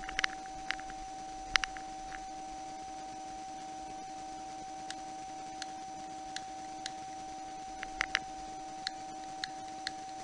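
A steady mechanical or electrical hum with scattered short clicks and ticks, a few louder ones about a second and a half in and around eight seconds in.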